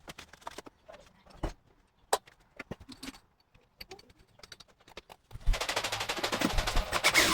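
Scattered light clicks and knocks, then from about five and a half seconds in a fast, even rattle of clicks.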